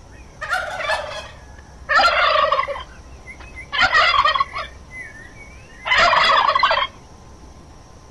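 A domestic turkey gobbling: four rapid, rattling gobbles about two seconds apart, with small birds chirping faintly in the background.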